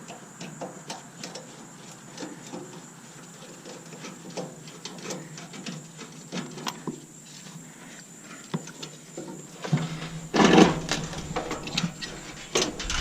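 Scattered light clicks and knocks of tools and metal parts being handled while a stainless steel coffee maker is taken apart, with a louder clatter about ten seconds in.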